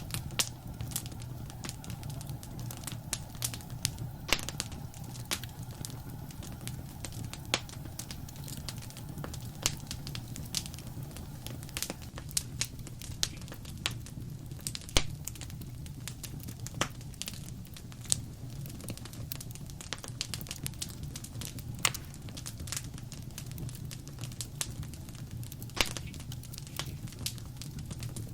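Wood fire crackling in a fireplace: irregular sharp pops and snaps, several a second with a few louder ones, over a steady low rumble of the flames.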